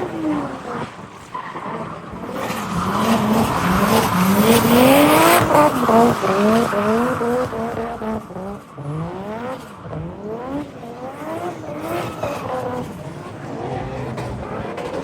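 Drift car engine revved hard in repeated rising sweeps, the throttle worked on and off, with tyres squealing as the car slides. It is loudest about four to six seconds in, then fades somewhat.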